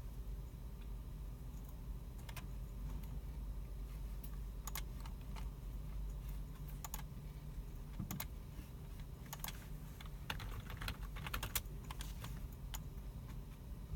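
Computer keyboards and mice clicking in a computer room: scattered keystrokes and clicks, with a quick run of typing about ten seconds in, over a steady low hum.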